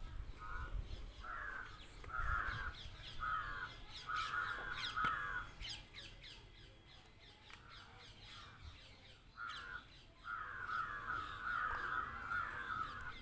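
A bird calling: a string of rough, short calls that run into a longer drawn-out one, a pause of a few seconds, then a second bout of calls near the end. Fainter high chirps sound alongside.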